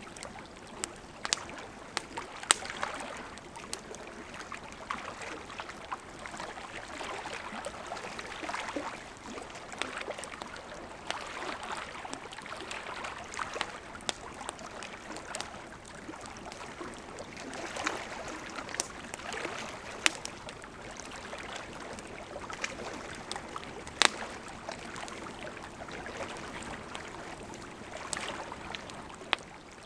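Wood campfire burning: a steady hiss of flames with frequent sharp crackles and pops, a few of them loud snaps.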